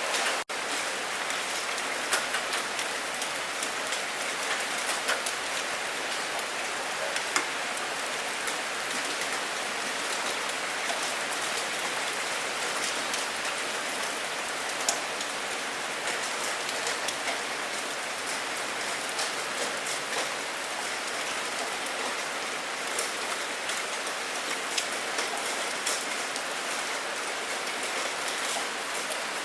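Steady rain falling: a dense, even hiss with scattered sharper drop hits. The sound cuts out for an instant about half a second in.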